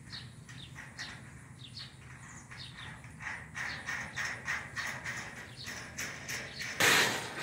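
Birds chirping over and over in the background, with a brief loud rattle near the end.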